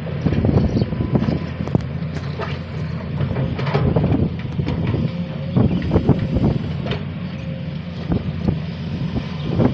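Sany SY215C hydraulic excavator at work: its diesel engine runs steadily under many irregular knocks and clanks from the machine.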